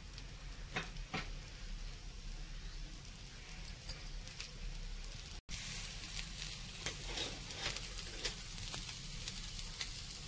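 Ragi dosa frying on a hot tawa with oil added on top: a steady sizzle with scattered small crackles. It cuts out for an instant about halfway through, then comes back louder.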